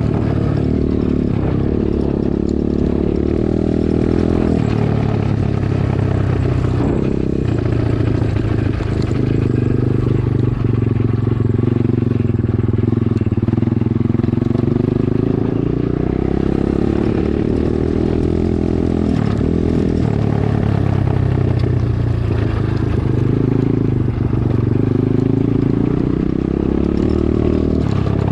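Dirt bike engine running continuously under way, its revs rising and falling every few seconds as the throttle is opened and closed.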